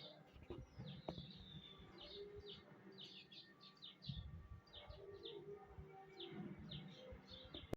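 Faint chirping of small birds: many short, quick chirps repeating throughout, over low background noise.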